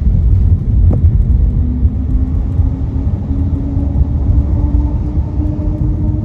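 Car driving on a rain-wet road: a steady, heavy low road rumble, with a single click about a second in. From about a second and a half in, a faint whine slowly rises in pitch.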